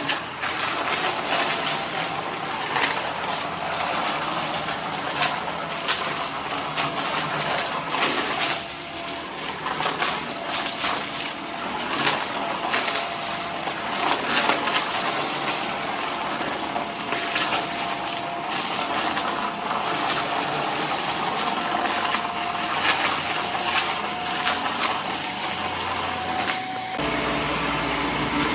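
Vacuum cleaner running over scattered debris, with a steady crackling and rattling of bits being sucked up; about a second and a half before the end its low hum changes.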